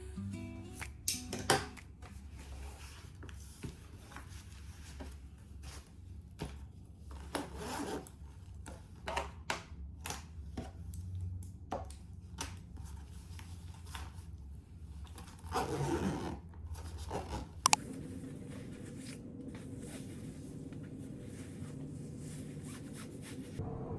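Small scratching, rubbing and scraping sounds with scattered light taps, as of things being handled and written with at a desk, over a low room hum. A sharp double click about 18 s in is the loudest sound.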